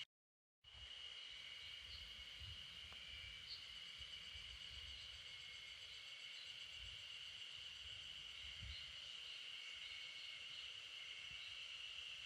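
Faint, steady high-pitched drone of insects calling, with a few small chirps over it and an uneven low rumble underneath. It cuts in after a split second of silence at the start.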